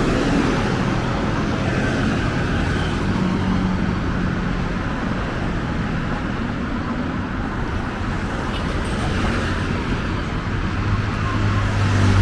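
Steady road traffic: a continuous wash of passing vehicles' engines and tyres. A low engine drone from a nearby vehicle builds near the end.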